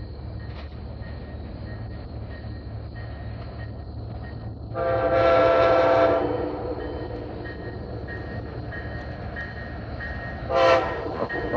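Locomotive air horn sounding one long blast of about a second and a half, then a short blast near the end, over the steady low rumble of a passing train.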